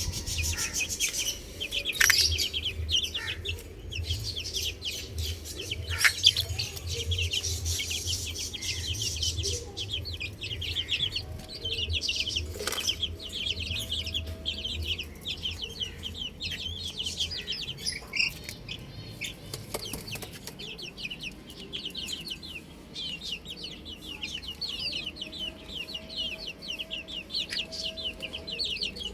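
A brood of domestic chicks peeping over and over in a dense chorus of short, high cheeps, with a few sharp knocks early on and an occasional lower cluck from an older bird. A low rumble underneath stops about two-thirds of the way through.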